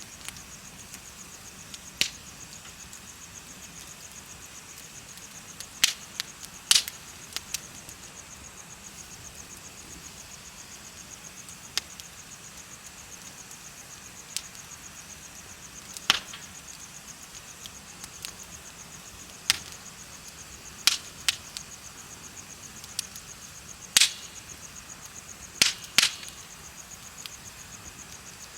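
Bonfire crackling, with sharp wood pops every second or few, the loudest sounds, over the steady, fast-pulsing high chirp of insects.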